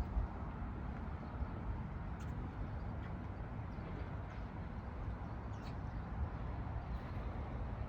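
Outdoor ambience on a walk: a steady low rumble with a few faint ticks and brief high chirps.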